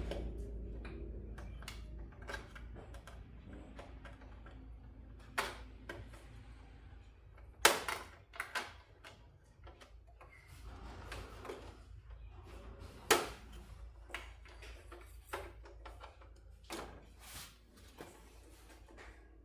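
Tools and TV parts being handled on a workbench: scattered light clicks and knocks, two sharper knocks about 8 and 13 seconds in, over a low steady hum.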